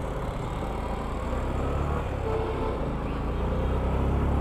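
Motorcycle engine running with a steady low rumble that grows a little louder toward the end.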